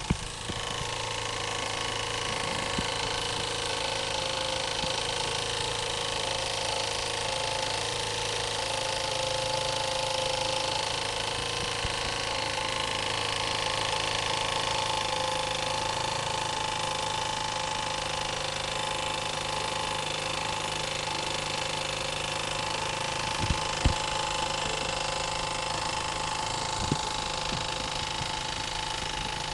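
Scratch-built Stuart Turner model steam engine running steadily under steam. A few brief sharp clicks come near the end.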